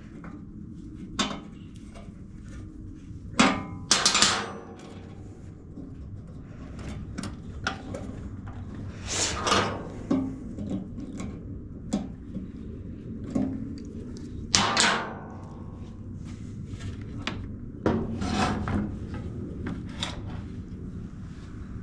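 Workbench handling noises: scattered knocks and clicks of parts and tools, with several short noisy bursts of about a second each.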